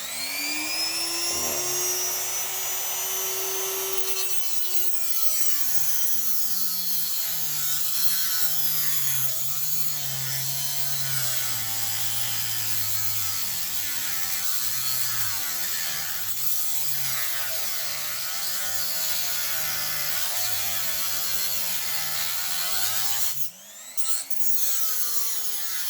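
Small high-speed rotary cutting tool spinning up and cutting metal, its motor pitch sagging and recovering as the cut loads it. It lets off briefly near the end, then bites in again.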